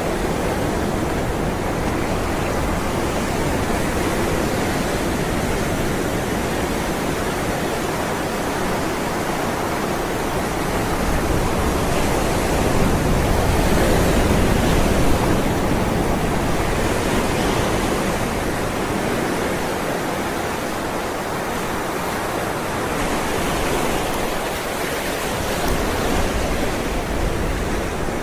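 Ocean waves rolling in and breaking, a continuous rush of surf that swells and eases slowly, loudest about halfway through.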